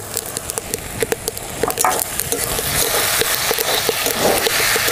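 Chopped tomatoes frying and sizzling in hot mustard oil in a metal kadai, stirred with a metal spatula that scrapes and clicks against the pan.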